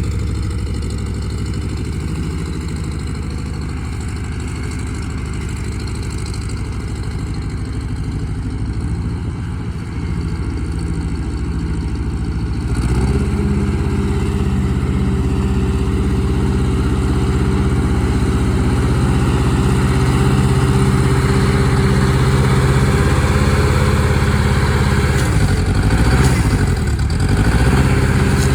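Massey-Harris tractor engine running at idle, then throttled up about halfway through to a higher, louder steady speed. Near the end the revs drop briefly and pick up again.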